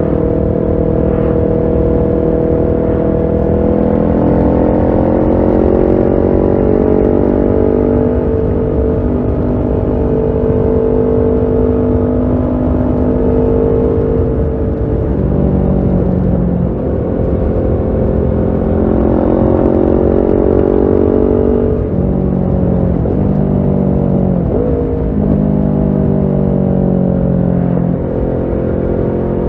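Kawasaki Ninja 650 parallel-twin engine breathing through a Shark SRC-4 full aftermarket exhaust while riding. The engine pitch climbs and falls, with sharp drops about halfway through and again several times near the end.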